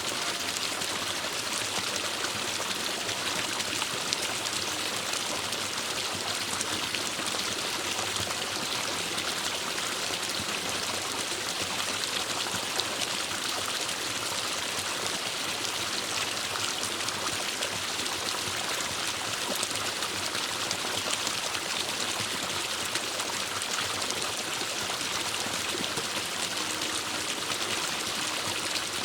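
Forest stream: water running and splashing steadily over rocks, a continuous bright rushing sound.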